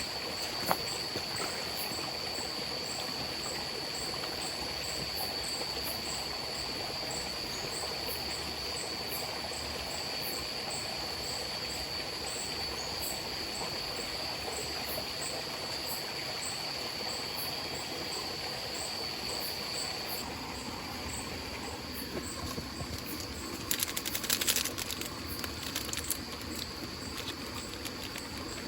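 Night forest ambience: a stream running steadily under a high, even insect trill that stops about two-thirds of the way through. A single sharp click comes near the start and a short cluster of clicks comes near the end.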